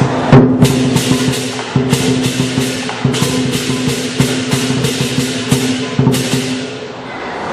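Lion dance percussion: a drum with clashing cymbals beating out a fast rhythm of about three strikes a second, which stops near the end.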